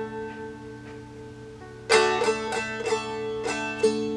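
Seagull Merlin, a four-string stick dulcimer tuned to D, strummed with open drone strings ringing under the fretted melody notes. A chord rings out for about two seconds, then a quick run of strums follows, about three a second.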